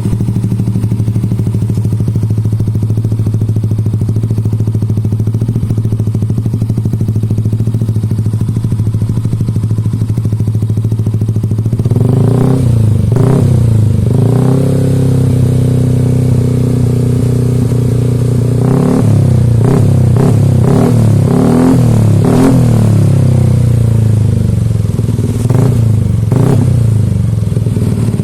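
Yamaha NMAX 155 scooter's single-cylinder engine breathing through an aftermarket racing exhaust, idling steadily with a deep, bassy note for about twelve seconds. It is then revved in several throttle blips, with pitch rising and falling, before settling back to idle near the end.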